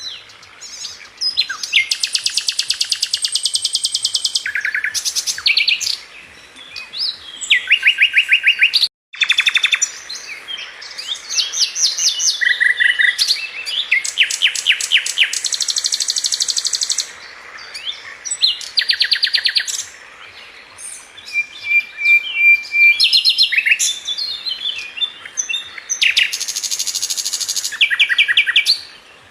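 A Sikatan London flycatcher singing a fast, varied song: phrases of rapid rattling trills of quickly repeated high notes, each a second or two long, with short pauses between them and a brief break about nine seconds in.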